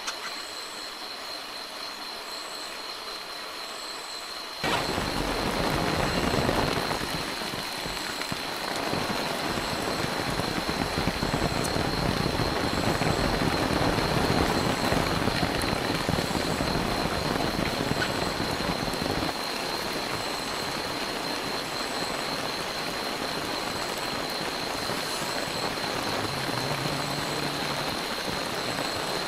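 Heavy rain, a dense steady downpour that comes in suddenly about four and a half seconds in and keeps on, with a thin steady high whine underneath it all along.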